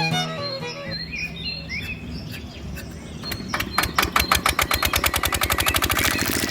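The mini diesel engine of a toy water pump starting up: about three seconds in, a rapid train of popping beats sets in and quickens into a steady run. Birds chirp faintly before it.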